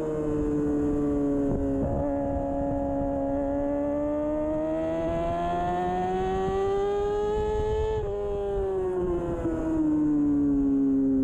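Inline-four engine of a 2013 Kawasaki Ninja 636 racing at high revs with wind rush. The engine note climbs steadily for several seconds under acceleration, breaks off sharply about eight seconds in, then falls away as the throttle closes.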